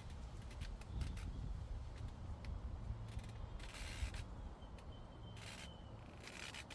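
Llamas grazing: irregular crisp clicks and short rasping rips as grass is cropped and chewed, over a low steady rumble. A brief thin high note sounds about five seconds in.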